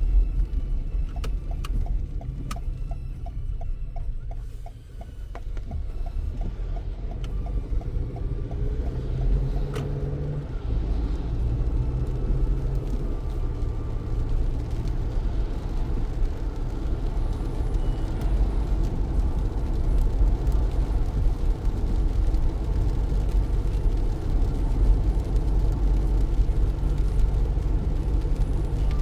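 Car driving in heavy rain: a steady low rumble of road and engine, with a regular light ticking over the first several seconds.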